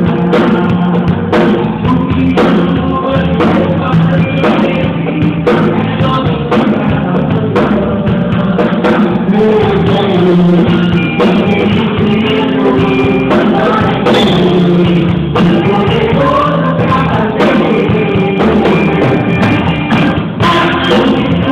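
Band music with a steady drum beat and a singing voice, typical of a church worship song.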